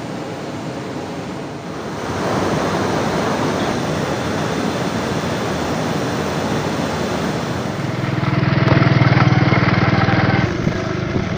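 A vehicle travelling on a rough road, with a steady rushing of wind and road noise. Its engine hum grows loud about eight seconds in and drops back about two and a half seconds later.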